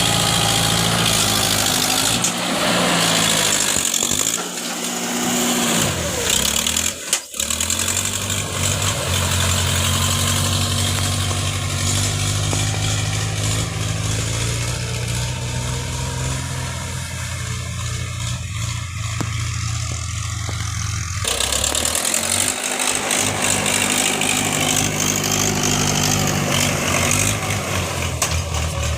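Tractor engine running steadily. Its pitch drops and picks back up a few times, and there is a brief break about seven seconds in.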